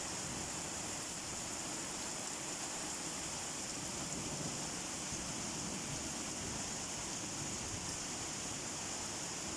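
Rain falling steadily, an even hiss with no single drops or thunder standing out.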